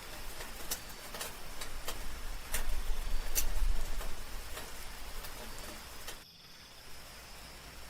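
Soft rain with irregular close drops tapping and dripping, over a faint steady high note from night insects and a low rumble that swells mid-way. About six seconds in the sound drops suddenly to a quieter, sparser patter.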